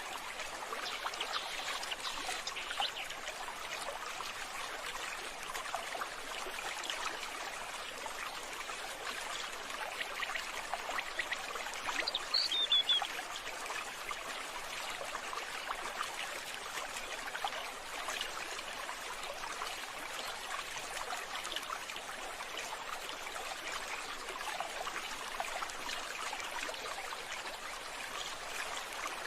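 Running water trickling steadily, with a brief high falling note about twelve seconds in.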